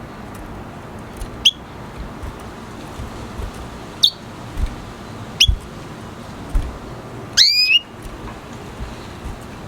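Red siskin giving short, sharp rising chirps, single notes spaced a second or more apart, then a longer call of several rising notes near the end. Soft low thumps come between the calls over a steady background hiss.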